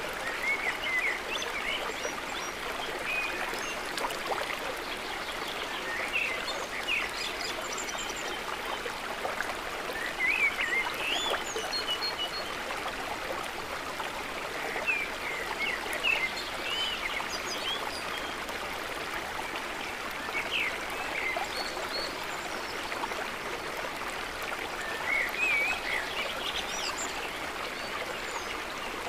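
Water trickling and gurgling steadily, with brief bright gurgles popping up every few seconds.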